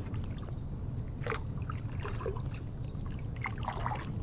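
Pedal-drive fishing kayak moving through shallow water: water trickling and splashing lightly around the hull and drive in scattered short spatters, over a steady low hum.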